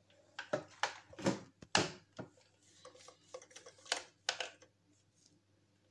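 Irregular clicks and knocks of a hair dryer's plastic housing being handled as it is taken apart.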